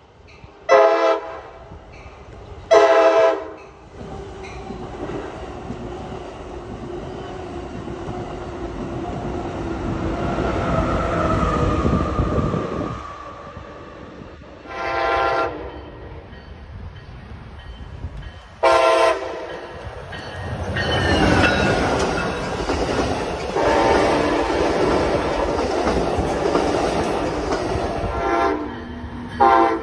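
Amtrak passenger trains: a locomotive horn sounds short blasts twice, then the rumble of an approaching train builds. After two more horn blasts a train passes close by, with a steady heavy rumble and wheel clatter, and the horn sounds again near the end.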